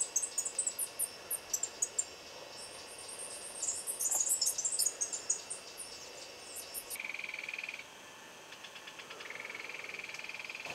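Chorus of small forest animals, frogs or insects: rapid, very high-pitched chirps repeated over and over, giving way about seven seconds in to a steady, fast-pulsed trill at a lower pitch.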